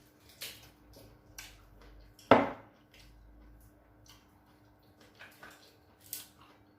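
Plates and cutlery clinking at the table during a meal: scattered light clicks and taps, with one louder clack a little over two seconds in.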